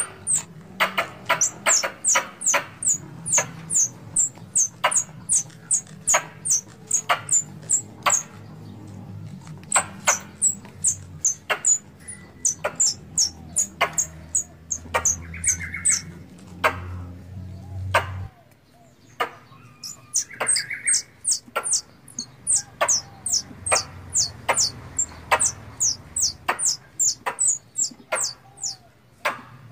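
Squirrel calling: a long series of sharp, high chirps, about two to three a second, each starting with a click, broken by two short pauses.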